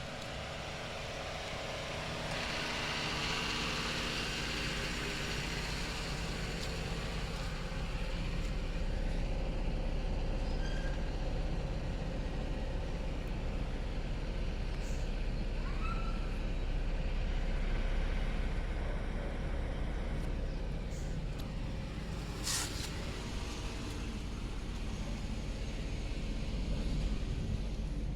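Motor vehicle running, a steady low rumble with road-traffic noise, swelling a few seconds in; one sharp tick near the end.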